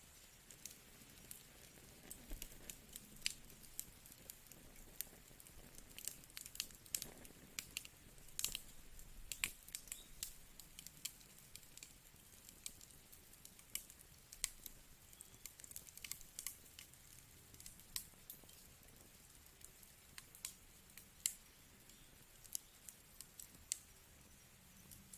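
Wood fire crackling: irregular sharp pops and snaps over a faint low hiss, busiest in the first half.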